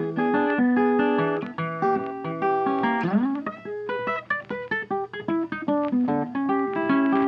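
Background music: acoustic guitar picking a melody, with a sliding note about three seconds in.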